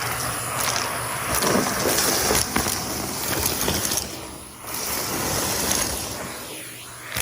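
Numatic Henry tub vacuum cleaner running and sucking up debris from the floor, with a few sharp clicks of bits rattling into the hose. The rush of air dips briefly about four and a half seconds in and again near the end as the nozzle moves.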